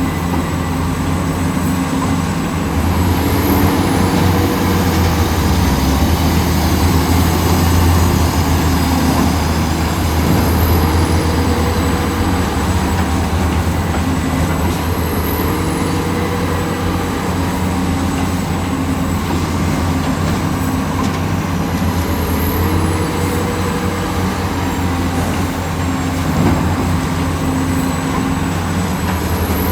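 Heavy diesel construction machinery, likely an excavator at work: a steady low engine drone, with a short whine that glides up and back about every six seconds.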